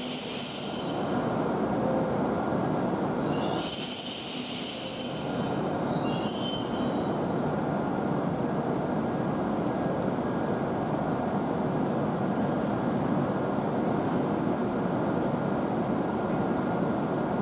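E7-series Shinkansen train pulling in and braking to a stop, with a high-pitched squeal in three bursts over the first seven seconds. A steady rumble and hiss from the train runs underneath.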